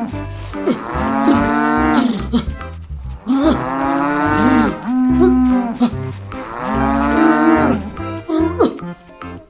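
Cow mooing, three long drawn-out calls, over light background music with a steady beat.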